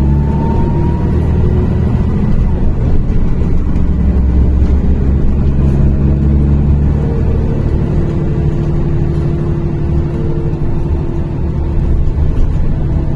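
NefAZ-5299 city bus driving between stops, heard from inside the cabin: the engine and drivetrain run steadily, the pitch of the engine shifting about midway as it changes speed.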